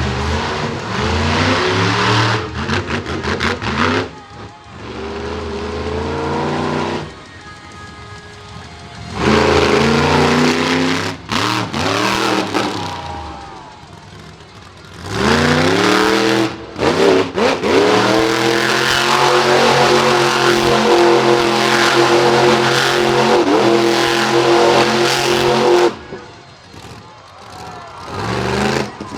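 Monster truck engine revving hard in three bursts, its pitch climbing each time. The last burst is held at high revs for several seconds before it cuts off suddenly near the end.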